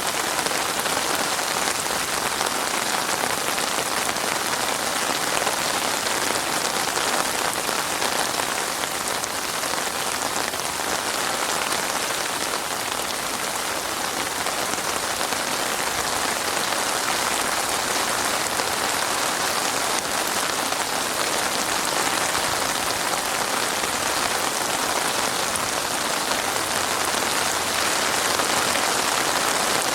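Heavy rain falling steadily as an even, unbroken hiss of drops on a surface.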